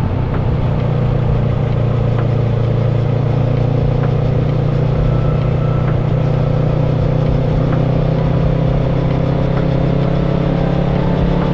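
Kawasaki ER-6n's parallel-twin engine running steadily under way, its note rising slowly as the bike gathers speed.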